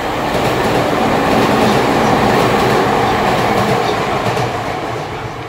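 Tokyu 9020-series electric train passing through the station without stopping, its wheels running over the rails. It grows loudest about two seconds in and fades as the last cars go by.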